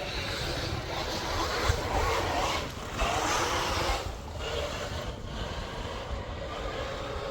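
Radio-controlled boat running on water, its motor and propeller churning in surges as the throttle comes and goes, with wind rumbling on the microphone.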